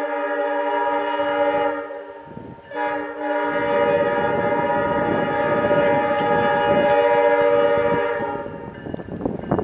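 Diesel locomotive's multi-tone air horn sounding a long chord, breaking off briefly about two seconds in, then sounding again and fading out about eight seconds in. Under the second blast comes the locomotive's engine rumble, and near the end a rattling clatter as it passes close by.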